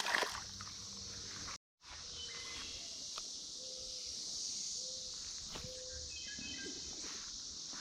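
A chorus of Brood X periodical cicadas, a steady high-pitched drone that does not let up, briefly cutting out about a second and a half in.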